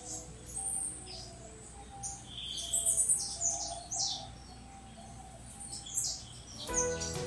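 Small birds chirping and tweeting: many short, high, falling chirps, scattered and irregular. Background music comes in near the end.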